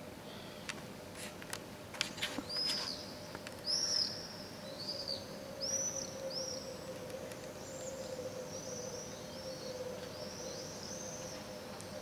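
Small birds calling overhead: many short, high, arching chirps in quick succession from about two seconds in, over a steady low hum.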